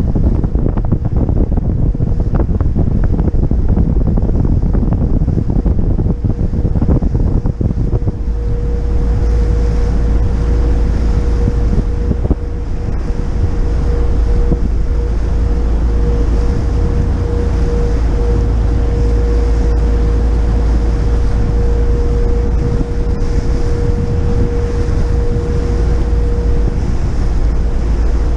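Wind buffeting the microphone of an action camera on a moving motor yacht, a loud low rumble. From about eight seconds in, a steady hum holds under the wind.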